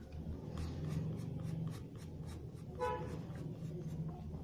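Pencil scratching on paper in short, quick strokes, about four or five a second, drawing eyebrow hairs one by one. About three seconds in there is a brief horn-like toot.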